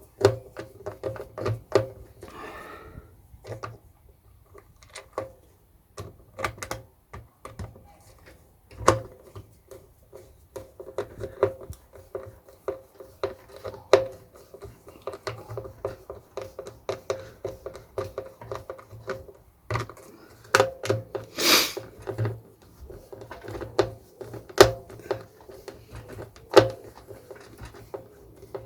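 Irregular plastic clicks, taps and knocks of handles and cord hooks being screwed onto a plastic ash vacuum, with one louder scraping rush about two-thirds of the way through.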